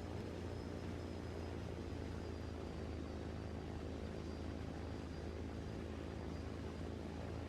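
A steady low engine-like drone with a faint thin high tone above it, unchanging throughout.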